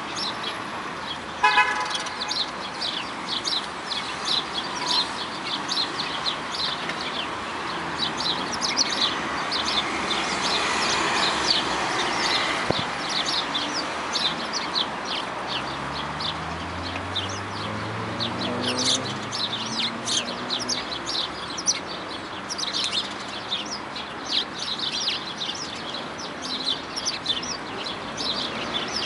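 Many small birds chirping continuously in quick, overlapping notes. A short horn-like tone sounds about a second and a half in, and a low rumbling sound rises in pitch about halfway through.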